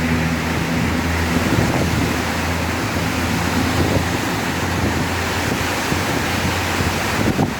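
Heavy rain falling in a steady, loud hiss. A low engine hum fades out in the first second or two.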